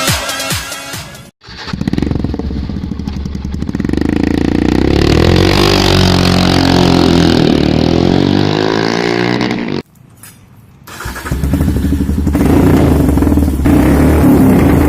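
Royal Enfield Himalayan's air-cooled single-cylinder engine running through an Akrapovic short-can exhaust. The bike's exhaust note swells loud and cuts off abruptly near the ten-second mark. After a moment's quiet it builds up again and holds a steady note to the end.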